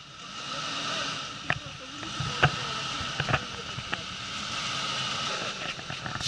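Off-road SUV's engine running as it drives through deep snow, with a few sharp knocks in between.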